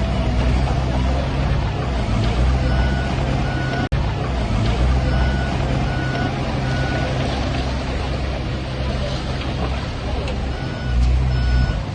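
Heavy diesel engines of earthmoving machinery running, with a reversing alarm beeping in short runs of evenly spaced beeps. The sound cuts out briefly about four seconds in.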